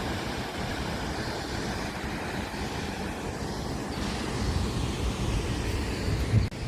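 Steady outdoor rushing noise, with wind buffeting the microphone more strongly in the second half and a brief dropout near the end.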